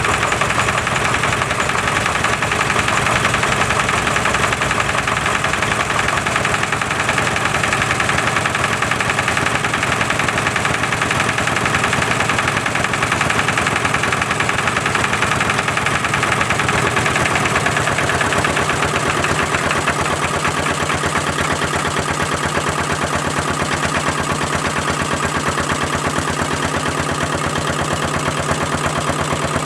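Three vintage single-cylinder stationary diesel engines, a Petter PAZ1, a Lister LT1 and a Petter AVA1, running together with a steady knocking beat. About two-thirds of the way through, the low note of the mix changes as the engines are being shut down one by one.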